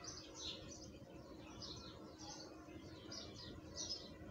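Small birds chirping faintly, short high chirps coming irregularly about twice a second.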